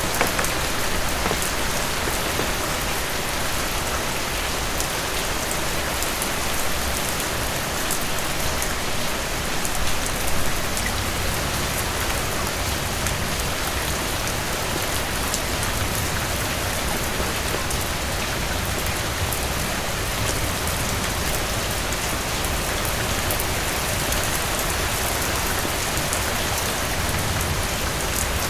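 Heavy rain falling steadily: a dense, even hiss with fine drop ticks throughout and a low rumble underneath, swelling briefly about ten seconds in.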